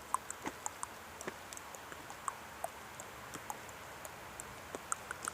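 Campfire crackling with a plastic hose melting in it: scattered small sharp pops and ticks at an irregular pace over a faint hiss.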